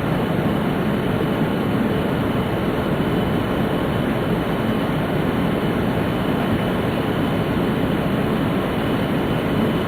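Steady rumble and hiss inside a passenger car of a Tōhoku Shinkansen Hayate train, with no sudden events.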